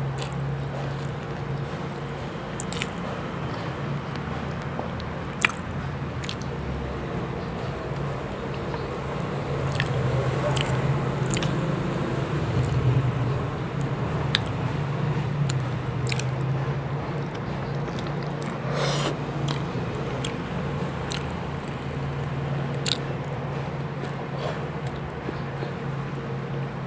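Close-miked chewing and biting of chicken adobo and rice, with scattered wet mouth clicks and squelches, over a steady low hum.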